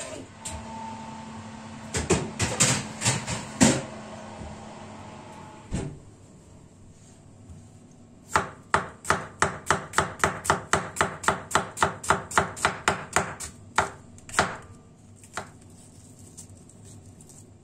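Kitchen knife chopping food on a board: a few irregular knocks, then a quick, even run of about twenty strokes at roughly four a second starting about halfway through.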